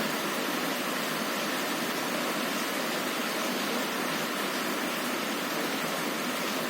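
Heavy rain pouring steadily on a window, an even hiss without breaks or thunder.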